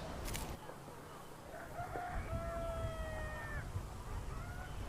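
Rooster crowing once, a long drawn-out crow starting a little under two seconds in, with a shorter, fainter call near the end. A sharp click comes just after the start.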